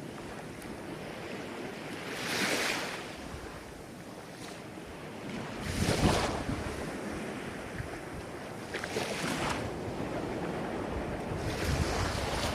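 Ocean surf: waves breaking and washing in, each surge swelling and fading about every three to four seconds, the loudest about halfway through.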